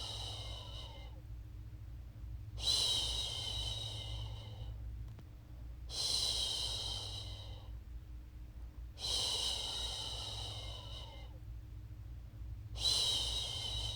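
A woman's voice shushing, "shhh", a long hiss of about two seconds repeated every three to four seconds, the end of one and four more in all. This is the soothing shush used to settle a baby to sleep. A steady low hum lies beneath.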